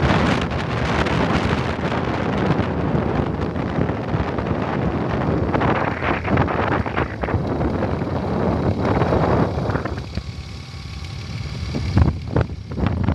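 Wind rushing and buffeting on the microphone of a moving motorcycle, with the vehicle's running noise underneath. The wind eases about ten seconds in, then gusts again near the end.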